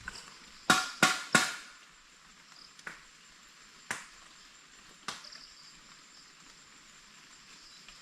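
Metallic knocking like a pot being struck. Three loud, ringing strikes come in quick succession about a second in. Three single, fainter knocks follow, spaced about a second apart.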